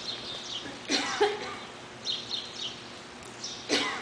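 Small birds chirping in short repeated high-pitched bursts. Two brief, louder rushing bursts come about a second in and near the end.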